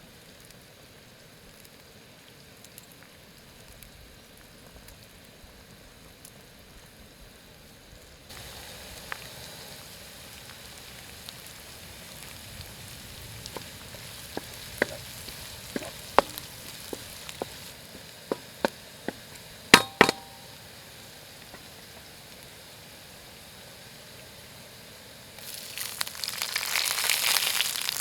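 Steady hiss with a run of sharp metallic clicks and knocks of cookware. Near the end, food is tipped into hot oil in a pan and sizzles loudly.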